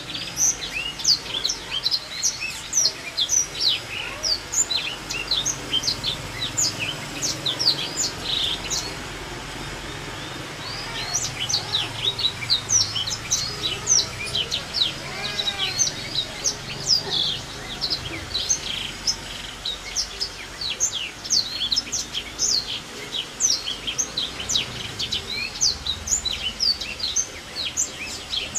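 Songbird singing a fast, continuous stream of short, high, sharp chirps and twitters, with a brief pause about ten seconds in.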